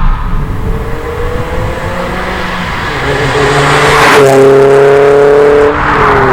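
MG TF's four-cylinder engine through an aftermarket TT exhaust, pulling under acceleration. The revs climb steadily and the exhaust gets louder about three seconds in, then the revs drop near the end.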